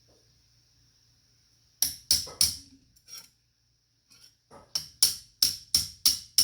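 Hand hammer striking metal on an anvil while forging a strap: three quick ringing blows about two seconds in and a lighter fourth, then after a pause a steady run of blows about three a second.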